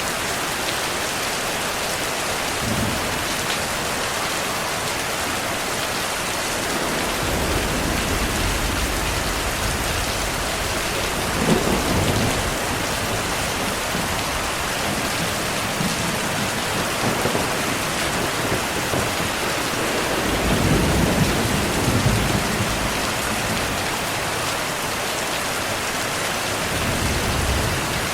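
Steady heavy rain hissing, with low rolls of thunder rumbling through it several times, the strongest about a third of the way in and again past the middle.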